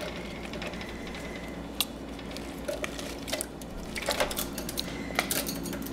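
Irregular light clicks and taps around a budgie's bath dish, a few at a time.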